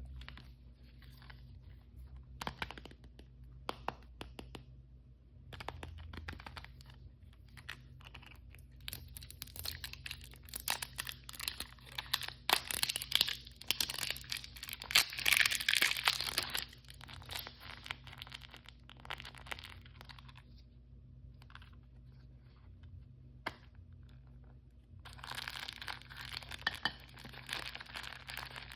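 Blind-bag toy packaging being torn open and crinkled by hand, in bursts of crackling, the longest and loudest in the middle and another near the end, with scattered small clicks and taps between.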